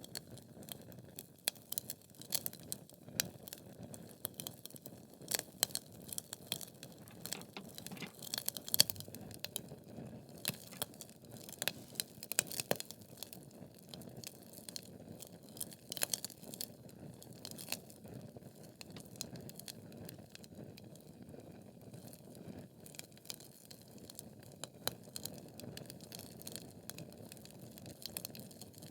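Wood logs burning in a fireplace: irregular crackles and sharp pops over a low steady rush of flame, with one louder pop about nine seconds in.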